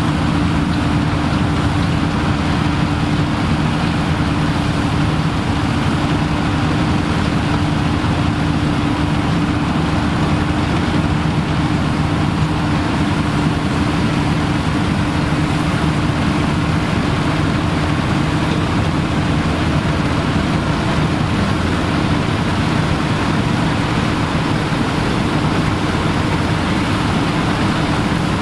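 Engine of vintage farm machinery running steadily at constant speed, a continuous drone with a steady low hum and no change in pitch.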